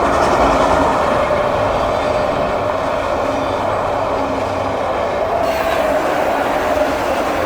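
CSX freight train of auto rack cars rolling past at close range: a steady loud rumble and clatter of steel wheels on rail, with a steady whine running through it.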